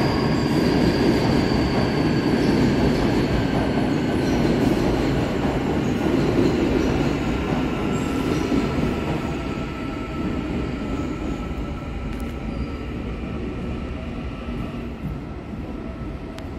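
Electric commuter train running past on the rails, a dense rumble with a thin high wheel squeal over it. The noise slowly fades through the second half as a second train approaches more quietly.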